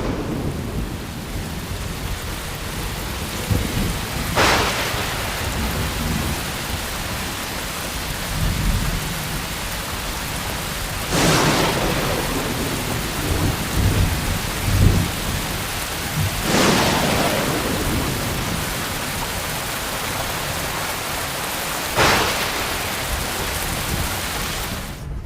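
Thunderstorm with heavy rain falling steadily and four sharp claps of thunder spread through it, about 4, 11, 16 and 22 seconds in, with low rumbling between them in the middle.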